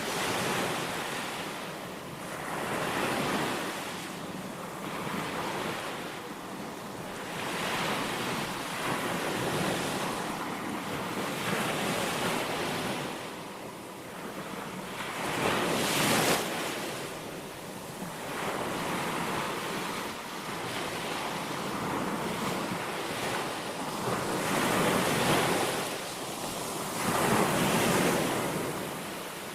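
Small sea waves breaking and washing up on a sandy beach, the surf swelling and falling every few seconds, with wind on the microphone.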